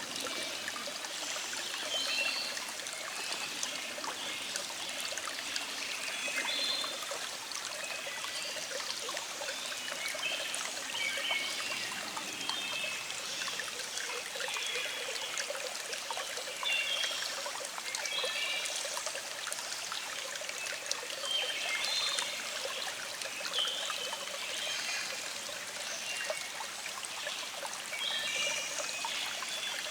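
Small stream flowing and trickling steadily, with birds singing in the background: short chirps come and go throughout.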